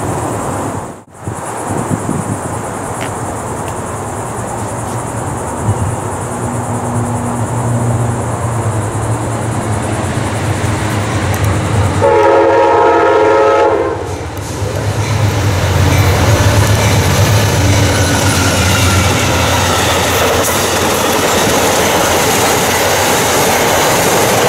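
Amtrak passenger train arriving: the diesel locomotive runs with a steady low rumble, sounds one chord horn blast of under two seconds about halfway, and then the locomotive and cars pass with wheels clattering over the rail joints.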